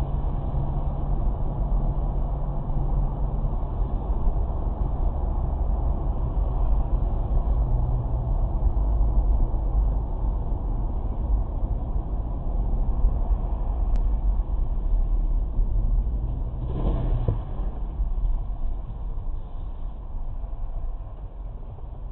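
Vehicle driving on the road: a steady low engine and road rumble, with a brief louder rushing noise about seventeen seconds in.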